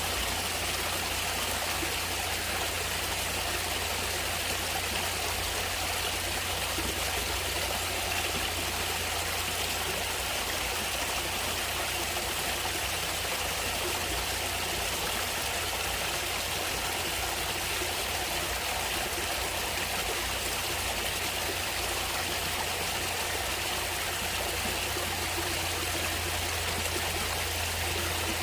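Water of a natural stream flowing, a steady, even rush with no breaks or changes.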